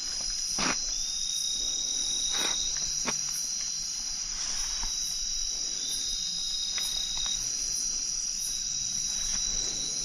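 A chorus of night insects, mostly a steady high-pitched trill, with a shorter high call repeating every couple of seconds. A few sharp clicks come in the first three seconds.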